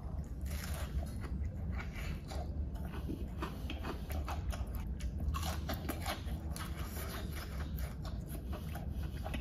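Chewing a mouthful of battered, fried giant squid (squid tempura) close to a clip-on microphone: a steady run of irregular crunches and crackles from the crisp batter.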